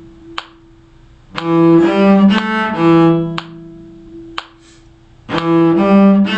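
Bowed string instrument playing a short four-note phrase starting on an E, twice, with a gap of a couple of seconds between the two.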